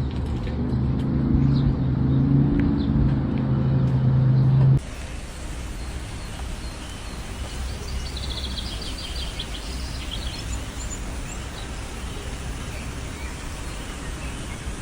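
A steady low vehicle hum with a few clicks, cut off suddenly about five seconds in. Then comes even outdoor background noise, with a bird chirping in a quick run of high notes near the middle.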